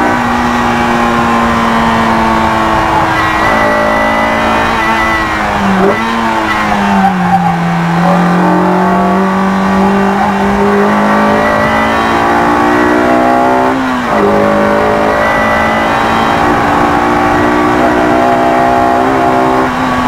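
Honda S2000's four-cylinder engine run high in the revs on a track lap, around 6,000 to 7,400 rpm. Near 6 seconds the pitch falls with a quick blip of revs as it is shifted down from fourth to third, sags low through the corner and climbs slowly, then drops sharply near 14 seconds at the upshift back to fourth and rises again.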